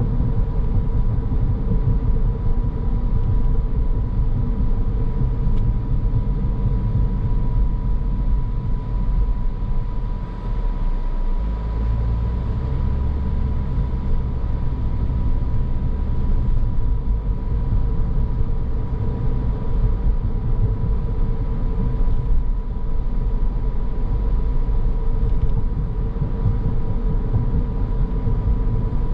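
Car driving along a road: steady engine and tyre rumble heard from inside the car, with a thin constant whine over it. The low rumble changes character about 11 seconds in.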